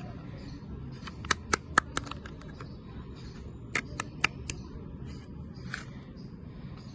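Sharp clicks of a plastic toy being handled: four quick clicks a second in, then three more about two and a half seconds later, over a steady low background hiss.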